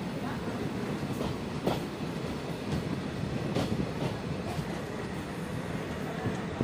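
Passenger train running along the track, heard from aboard a coach: a steady rumble of wheels on rails, with sharp clacks about a second apart as the wheels cross rail joints.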